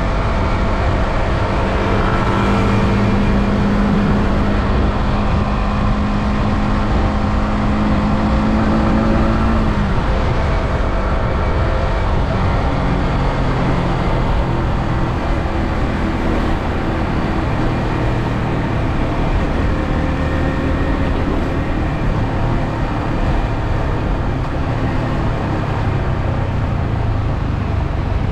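Yamaha R15M's 155 cc single-cylinder engine through its stock exhaust, running at steady revs under heavy wind rush; about ten seconds in the engine note drops and settles at a lower pitch.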